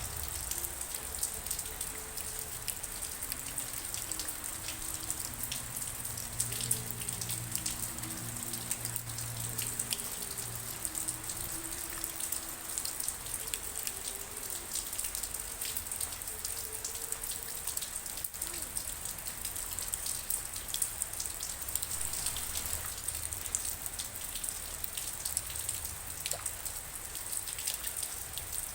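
Steady rainfall, with many individual raindrops tapping and splashing on hard surfaces close by.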